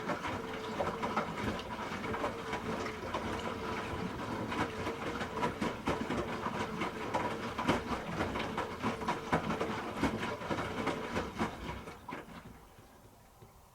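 Hoover H-Wash 300 Plus washing machine drum turning during a rinse: a steady motor whine under many irregular knocks and splashes from the wet laundry and water. It stops about twelve seconds in.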